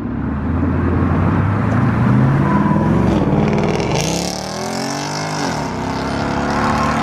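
Car engine revving hard while doing donuts, its pitch climbing and dropping several times, with a loud hiss joining about four seconds in.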